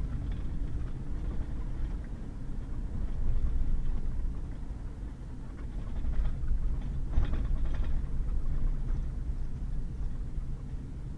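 Pickup truck driving on a wet, muddy gravel road: a steady low rumble of engine and tyres, with a few brief knocks in the second half.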